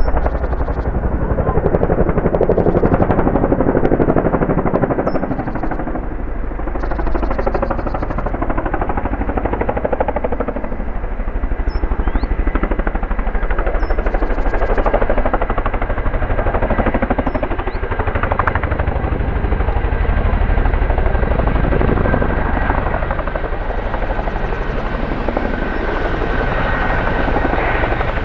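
Boeing CH-47F Chinook tandem-rotor helicopter running, its rotor blades chopping rapidly over a steady high whine. The loudness swells and eases several times.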